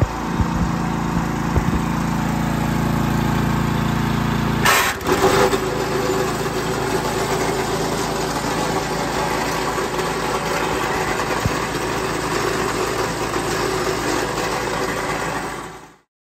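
Small engine of an ATV front flail mower running steadily. About five seconds in there is a short clattering burst, after which the running tone changes. It cuts off abruptly near the end.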